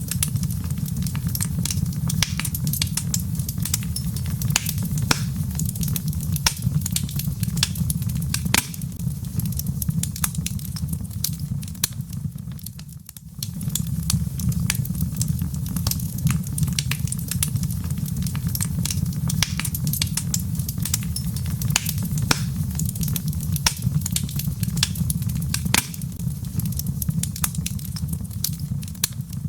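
Log fire crackling: frequent sharp pops and snaps over a steady low rumble. The sound fades down briefly about halfway through.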